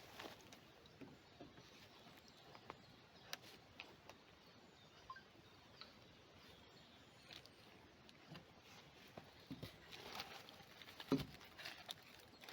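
Near silence in the open air, broken by scattered faint clicks and small knocks, with one louder knock about eleven seconds in.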